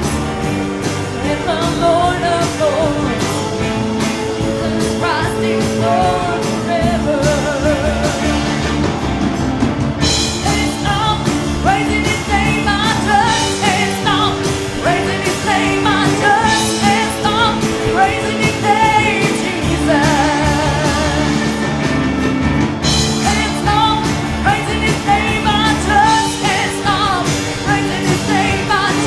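Live worship music: singing with a band, with a steady drum beat.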